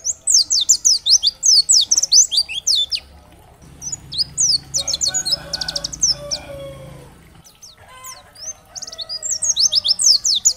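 Pleci (white-eye) singing a fast chattering song of high, sharply falling notes, in three bursts with short breaks about three and seven seconds in.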